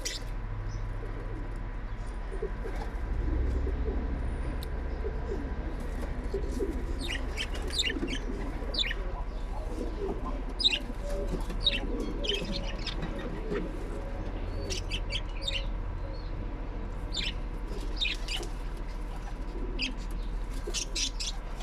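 Small parrot chirping in many short, high calls scattered throughout, with softer lower calls between them and a steady low hum underneath.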